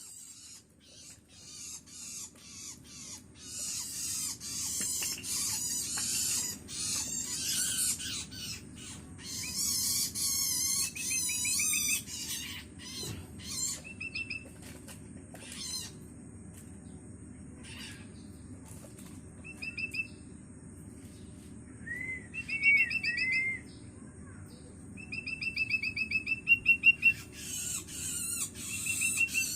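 Young long-tailed shrike giving harsh, rasping begging calls in quick series, the calls of a hungry chick calling for its parent. From about halfway through, short trilled whistled phrases come in between the harsh calls.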